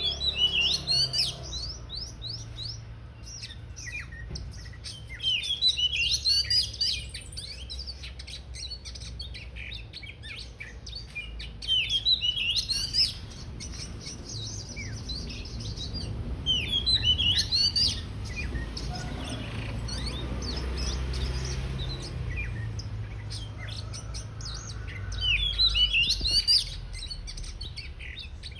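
Oriental magpie-robin singing in about five loud bursts of rapid, varied sweeping notes, with scattered quieter calls in between, over a steady low background hum.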